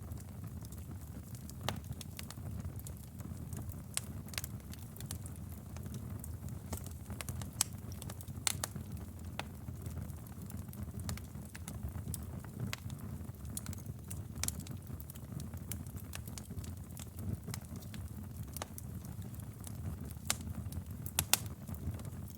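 Wood fire burning in a fireplace: a steady low rumble of flames with irregular crackles and sharp pops, a few louder pops about 8 seconds in and near the end.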